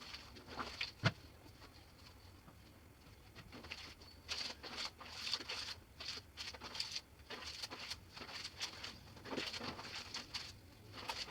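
Clothes being washed by hand in a basin of water: irregular rubbing, sloshing and splashing, with a single sharp knock about a second in.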